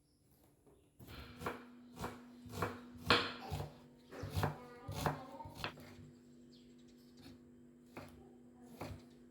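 Kitchen knife chopping food on a cutting board in quick knocks, about two a second, thinning out after about six seconds. A steady low hum runs underneath from about a second in.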